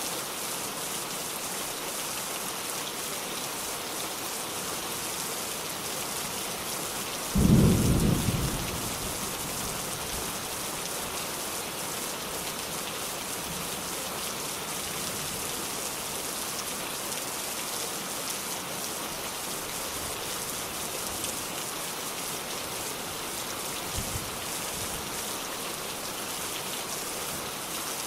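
Steady rain falling, with one sudden low clap of thunder about seven seconds in that dies away over a second or so.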